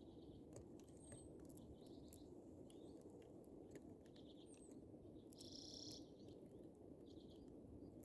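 Faint bird chirps, a few short calls with one longer one around the middle, over scattered small clicks and a steady low background noise.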